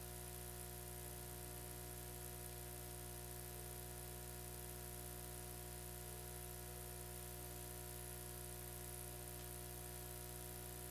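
Steady electrical hum and buzz with many overtones, over a constant high hiss, unchanging throughout: line noise on the audio feed with no programme sound.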